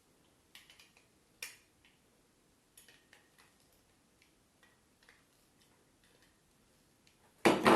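Small plastic and metal parts of a DP main switch being handled and fitted: scattered faint clicks and taps, then near the end a loud run of rapid clicking and rattling.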